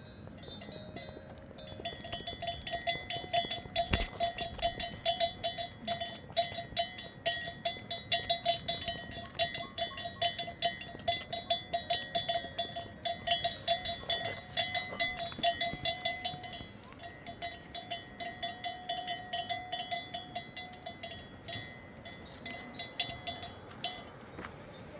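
A metal livestock bell clanking, about four strikes a second, as if on a walking animal. It starts about two seconds in and stops shortly before the end.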